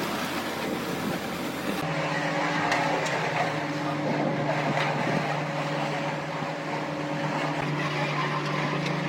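A motor running at a steady speed with an even hum, its sound shifting abruptly about two seconds in.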